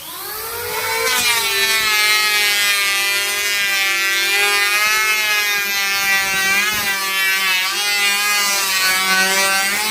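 An electric woodworking power tool working a wooden board, with a high, steady motor whine. It winds up over the first second, then holds with slight wavers and a brief dip about seven seconds in as the load changes, and stops just before the end.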